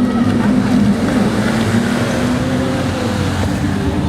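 Stunt vehicle's engine running at a fairly steady pitch that wavers slightly up and down.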